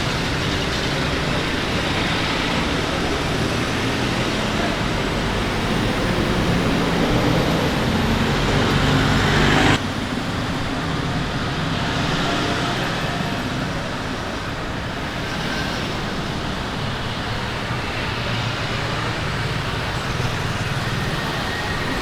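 Steady road traffic: vehicle engines and tyre noise, with an abrupt change in the sound about ten seconds in.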